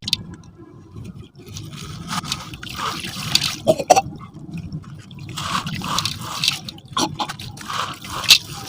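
Gritty sand-cement crumbling and falling into a metal container: irregular crunching and crackling with scattered sharp clicks as pieces break and drop.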